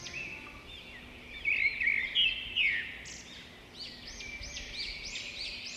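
Birds chirping and singing in many short, quickly repeated notes, loudest between about one and a half and three seconds in.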